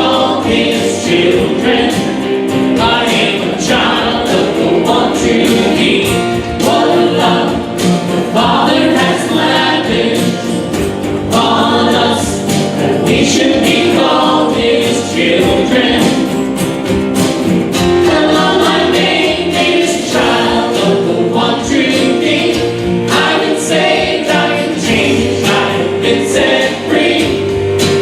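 Choir singing a hymn, many voices together in continuous sustained lines.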